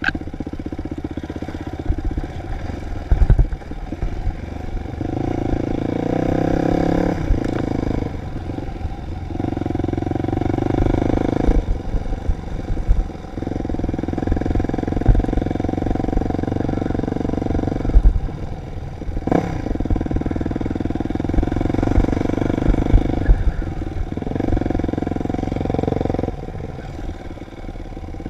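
Dirt bike engine riding a trail, the throttle opened and closed in bursts of two to five seconds, with scattered knocks and thumps from the rough ground.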